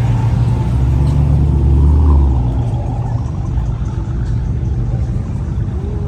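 Car engine running with a low note, louder for the first two seconds or so, then settling to a steadier, quieter level.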